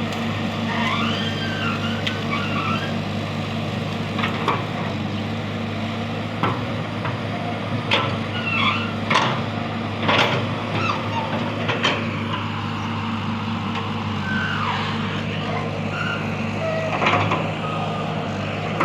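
Excavator's diesel engine running steadily, with several sharp metallic knocks and short squeals in the middle stretch.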